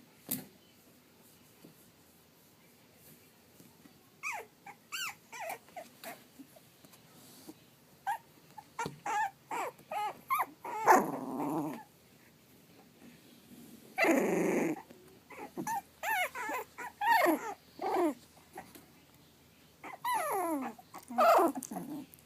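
Three-and-a-half-week-old pug/dachshund mix puppies whining and yipping in many short, high calls that slide in pitch. Two longer, rougher growling sounds come about halfway through.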